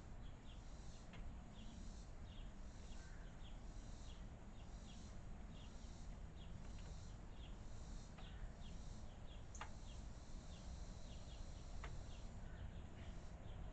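Small bird chirping: short high chirps repeated about twice a second over a steady outdoor hiss, with a few faint clicks.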